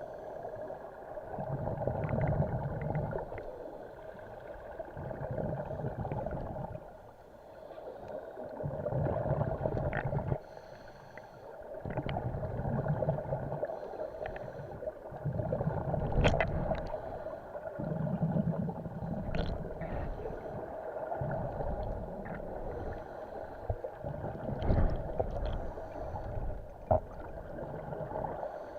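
Scuba diver breathing through a regulator underwater: a gurgling rush of exhaled bubbles every few seconds, over a steady hum, with occasional sharp clicks.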